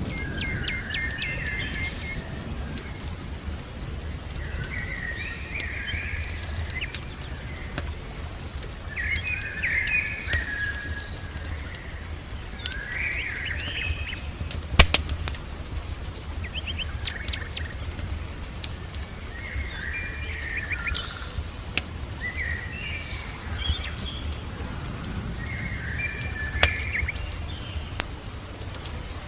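Songbirds chirping in short phrases every few seconds over a bed of fireplace crackling, with scattered sharp pops and a steady low rumble.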